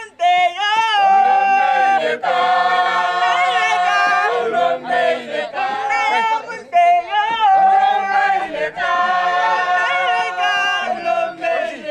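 A group of voices singing together without instruments, in held, wavering notes with short breaks between phrases.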